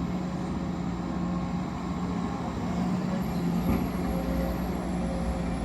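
Engine of an excavator or hauler truck running steadily with a low rumble and hum, with a brief knock about three and a half seconds in.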